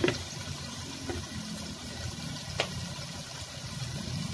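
Vegetables frying in oil in an aluminium pot on the stove: a steady low sizzle, with two short ticks, one near the start and one a little past halfway.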